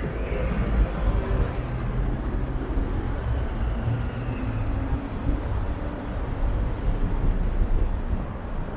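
Steady low rumble of city street traffic, heard while riding along a roadside bike lane.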